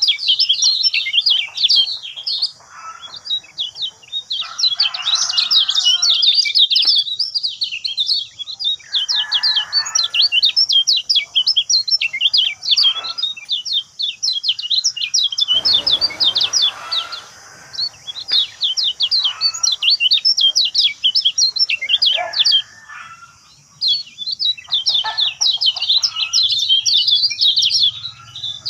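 Kecial kuning white-eye singing: a fast, dense twittering of many short high chirps, pausing briefly now and then.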